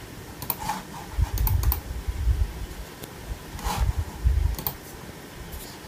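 Scattered sharp clicks of a computer mouse and keys as the Mac OS X menu is used to shut the computer down, with stretches of low rumble between them.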